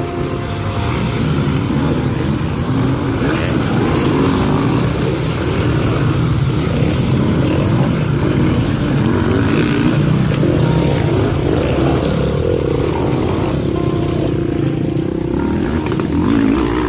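Dirt bike engines running and revving on a race track, their pitch rising and falling continuously.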